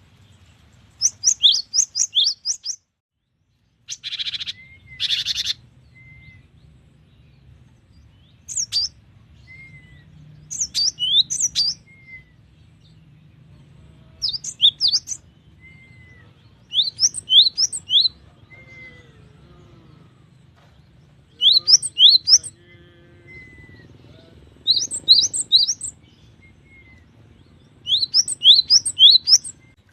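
Cinereous tit singing: repeated phrases of quick, high, downward-slurred notes, each phrase about a second long and coming every few seconds. Two short harsh rasping calls come about four seconds in, and soft single whistles fall between the phrases.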